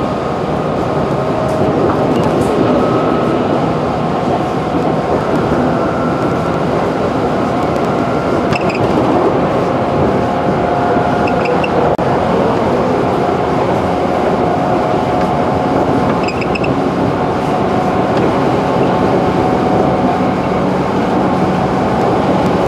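211 series electric multiple unit running at speed, heard from inside the passenger car: a steady rumble of wheels on the rails with a few faint ticks.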